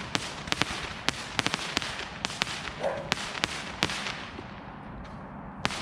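Consumer fireworks going off: a rapid string of sharp cracks and pops over a crackling hiss, thinning out about four seconds in, with one last crack near the end.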